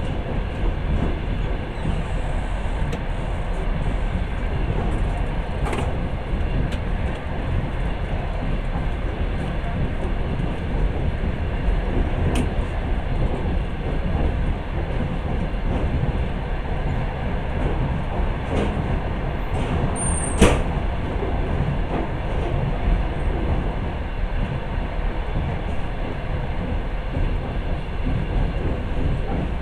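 Passenger train running, heard from inside the carriage: a steady rolling rumble with a few sharp knocks now and then, the loudest about two-thirds of the way through.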